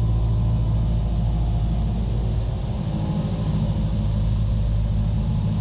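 Cessna 172's piston engine and propeller droning steadily at pattern power, heard inside the cabin.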